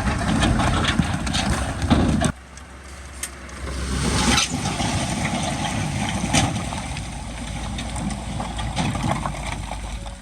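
Heavy diesel engine of earthmoving machinery running, with a sudden drop in level about two seconds in, then building up again.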